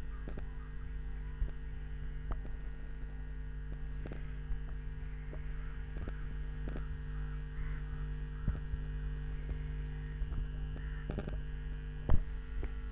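An 8-inch speaker on a homemade CD6283 dual-IC amplifier gives a steady mains hum while idling with no music playing. A few faint clicks are scattered through it, and there is one sharper click near the end.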